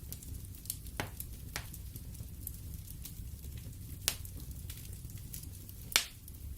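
Wood fire in a fireplace crackling over a low steady rumble of the flames, with sharp pops of the burning logs, the loudest about four seconds in and just before the end.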